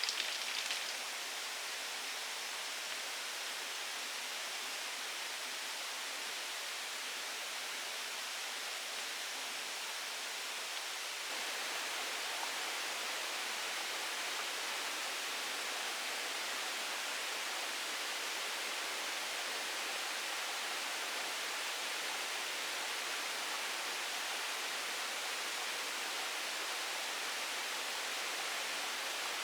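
Steady, even rushing hiss of water, a little louder from about eleven seconds in.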